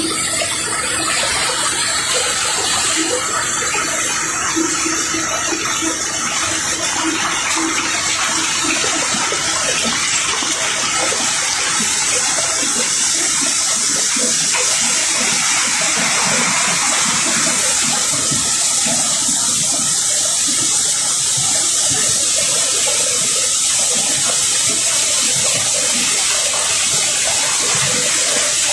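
Cobblestones pouring in a continuous stream during unloading from a barge: a steady, dense rushing rattle of many rocks sliding and tumbling together, with no breaks.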